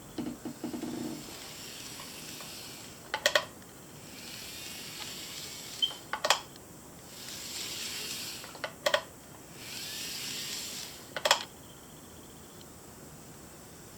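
N-gauge model train running on its track, a steady hiss that swells and fades as it passes, with sharp clicks about every two and a half to three seconds as the wheels cross rail joints.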